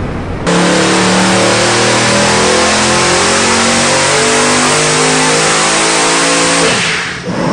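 Boosted Nelson Racing Engines LSX small-block V8 on an engine dyno making a full-throttle pull under load. It comes in suddenly about half a second in, holds loud and steady for about six seconds, then cuts back near the end with the revs falling.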